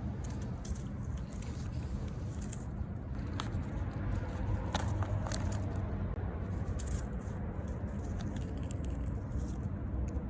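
Steady low rumble of distant traffic, with a few faint, sharp clicks about halfway through.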